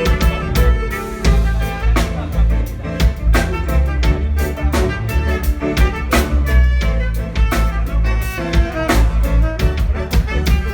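A live band playing instrumental music with no vocals: drum kit and a strong bass line under a steady beat, with pitched instruments on top.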